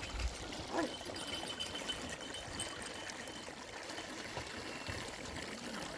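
Steady running water, an even rushing trickle.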